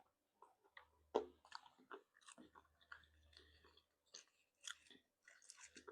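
Faint chewing and biting while eating seafood: a string of short, irregular mouth clicks and smacks, the sharpest about a second in.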